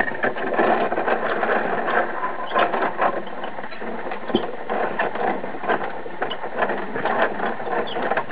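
Plastic gears of a toy rear-loader garbage truck's loading mechanism clicking and ratcheting steadily as the mechanism is worked.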